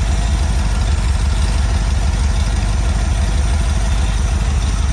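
Carbureted 4.0-litre Rover V8 idling steadily on an engine stand, a continuous low pulsing rumble, warmed up and with oil pressure good.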